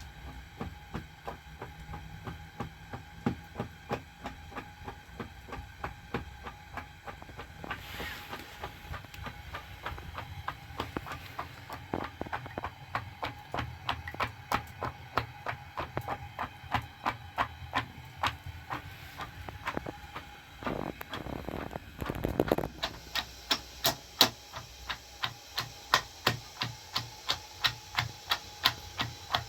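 Steady, repeated sharp knocks of something being struck by hand, about one to two a second, growing quicker and louder about two thirds of the way in, with a brief scraping sound just before.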